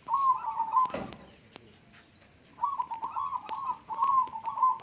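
Zebra dove (perkutut) cooing: a short burst of its trilled notes, then after a pause of about a second and a half a longer run of the same repeated coo. A single soft knock about a second in.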